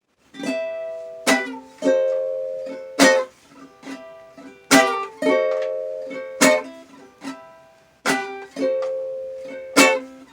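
Small acoustic stringed instrument strummed in a repeating chord pattern, with a strong downstroke about every second and a half and lighter strums between. It is the instrumental introduction to a song, played in a small bathroom.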